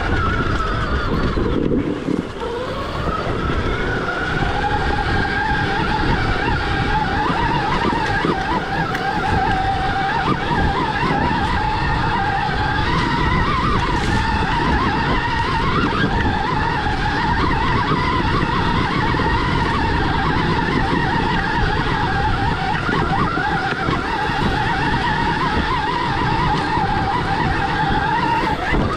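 Stark Varg EX electric dirt bike's motor whining under way over rough low rumbling noise; the whine drops about a second and a half in and climbs back, then holds steady.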